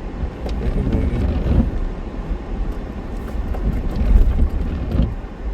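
A car driving on a snow-covered road, heard from inside: a steady low rumble of tyres and engine with uneven small knocks and wind buffeting the microphone.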